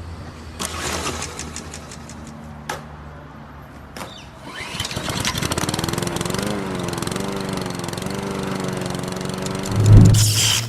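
Motorcycle engine sound: some clicks and rough cranking, then an engine catches about four and a half seconds in and runs with a slightly wavering pitch. A loud low thump comes near the end.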